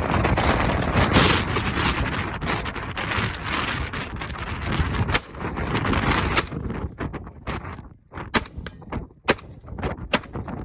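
Gunshots on an outdoor range with heavy wind buffeting the microphone. The wind drops about six and a half seconds in, leaving a few sharp single shots roughly a second apart.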